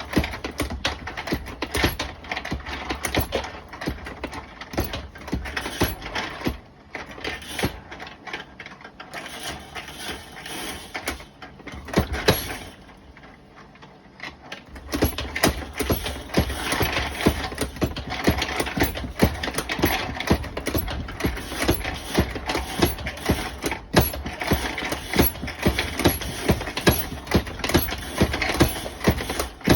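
3D-printed bullet feeder running, with cast lead bullets clattering and clicking steadily as they feed and drop through into a Lee APP press being cycled to size them. The clatter drops to a lull about halfway through, then starts up again.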